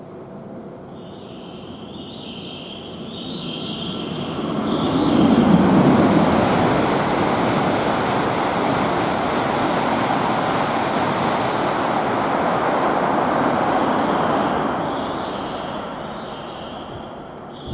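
Tohoku Shinkansen bullet train passing the platform at high speed: a rushing noise that swells over about three seconds, holds steady for about nine, then fades away.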